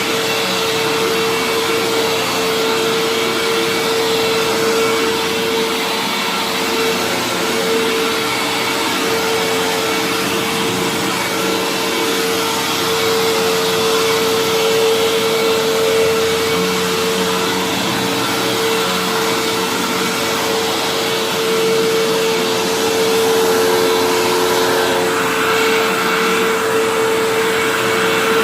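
Hoover WindTunnel upright vacuum cleaner running steadily, its motor giving a constant whine over the rush of air.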